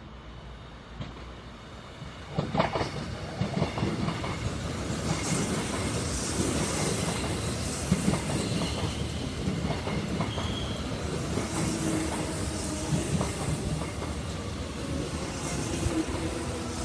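Seoul Metro Line 1 electric train passing close by: its wheels clatter over the rail joints, getting loud about two seconds in, with some wheel squeal. Faint steady tones from its Mitsubishi GTO-VVVF traction inverter come in during the second half.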